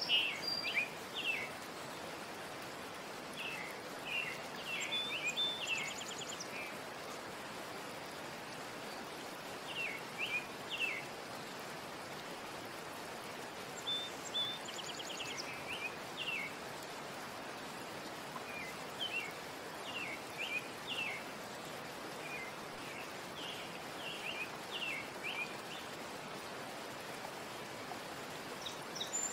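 Small birds chirping in short twittering phrases every few seconds over a steady hiss.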